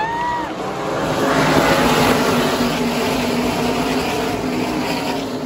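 NASCAR pickup trucks' V8 race engines running at speed. The sound swells to a peak about two seconds in as they pass, then slowly fades.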